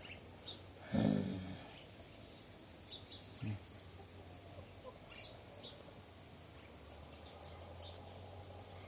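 Faint, short bird chirps scattered through the background, with a short voice sound about a second in and a briefer one a little after three seconds.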